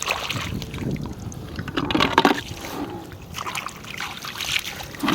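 Shallow floodwater splashing and trickling in irregular bursts as it is disturbed while snails and crabs are caught by hand, loudest about two seconds in.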